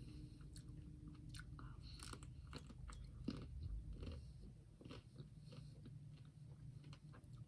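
Faint chewing and biting of a Magnum double caramel ice cream bar, with small irregular crunches of its chocolate coating.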